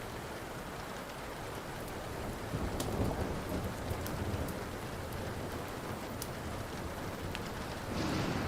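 Steady rain with low rolling thunder that swells about three seconds in and again near the end, over a few sharp pops of a crackling wood fire.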